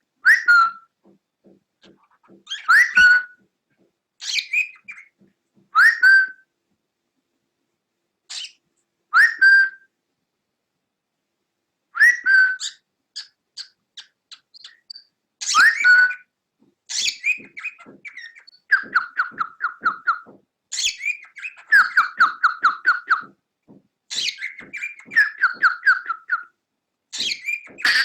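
Cockatiel whistling: short rising whistle calls every few seconds, then quicker runs of rapid repeated notes in the second half.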